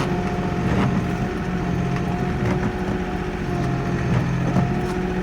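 Kioti NX4510 diesel tractor running steadily, with a thin steady whine over the engine and a few light knocks.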